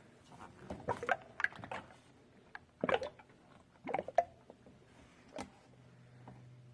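Engine coolant poured from a jug into the radiator, glugging and splashing in irregular gulps.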